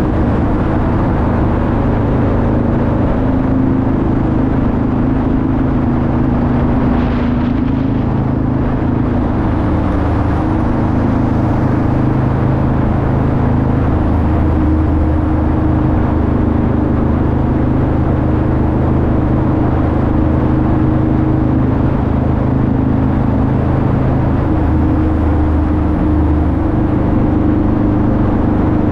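Harley-Davidson V-Rod's liquid-cooled 60-degree V-twin running steadily at cruising speed inside a road tunnel.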